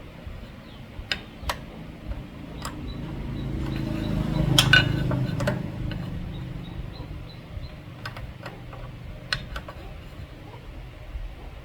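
Scattered metallic clinks and taps of metal parts being handled, with a low rumble that swells and fades around the middle.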